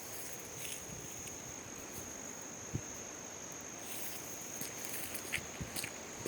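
Steady high-pitched insect trill, like a cricket, in a forest, with scattered light crackles that become more frequent in the second half.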